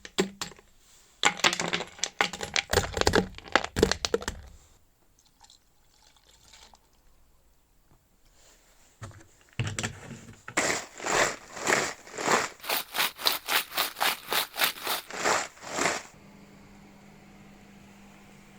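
Irregular sharp knocks and scrapes, then a quiet pause, then about six seconds of quick, even scraping strokes, roughly three or four a second, which stop suddenly.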